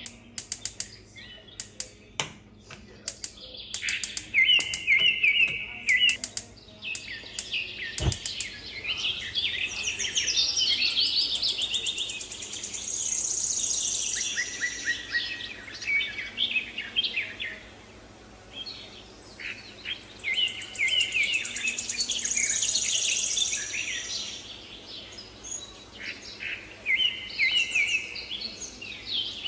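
Small birds chirping and twittering in repeated trills, coming and going in runs with quieter gaps. There are rapid clicks in the first few seconds and a single sharp knock about eight seconds in.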